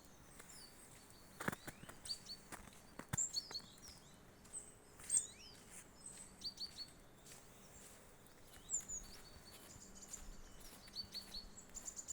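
Small songbirds chirping and calling, with short high notes repeated in quick runs of three or four. A few sharp clicks are heard about one and a half and three seconds in.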